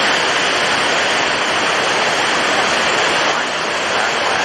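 Storm at sea: strong wind and heavy surf making a loud, steady rushing noise.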